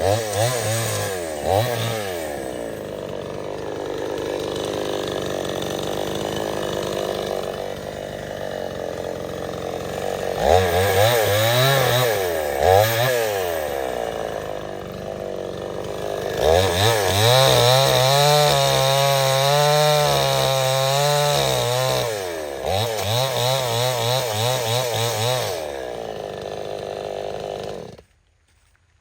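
Stihl 070 two-stroke chainsaw cutting into teak: the engine revs up and down repeatedly and settles into long steadier stretches at a lower pitch under load in the cut. The sound cuts off suddenly near the end.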